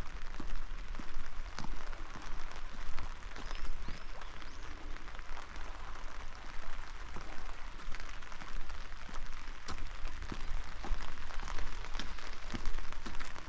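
Steady rain falling, with many small individual drops ticking close by over an even hiss.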